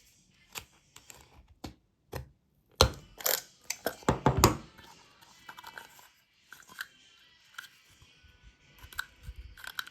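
Irregular clicks and crunches of an LED bulb's hard plastic parts being handled and worked on, densest about three to four and a half seconds in, then sparser and fainter.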